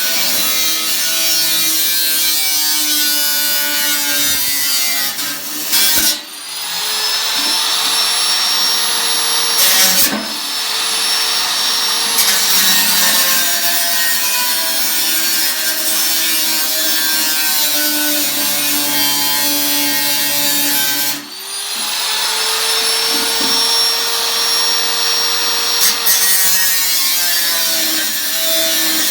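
Electric power tool cutting the thin sheet steel of an 18-litre square can, running with a steady whine. It drops out briefly twice and spins back up to speed each time.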